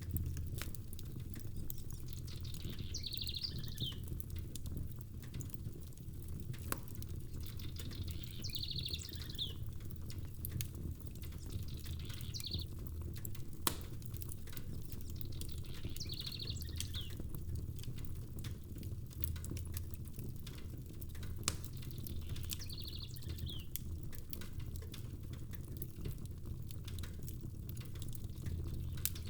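Crackling fireplace, with sharp pops and snaps over a steady low rumble of rain. A short, high fluttering chirp comes back about every five or six seconds.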